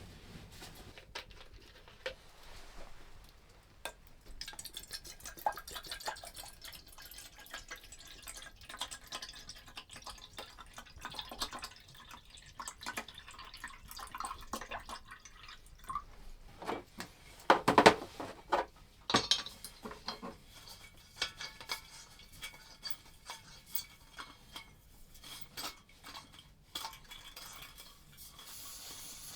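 Light clicks, clinks and knocks of objects being handled, with a louder cluster of knocks about 18 seconds in.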